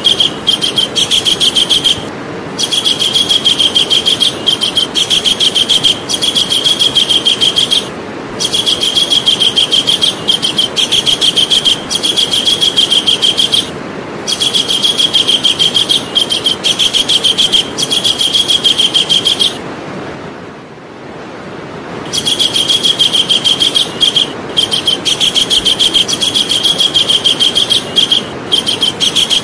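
Javan kingfisher calling: long runs of loud, rapid, shrill repeated notes. Each run lasts several seconds, with brief pauses between and a longer pause about two-thirds of the way through. A steady hiss runs underneath.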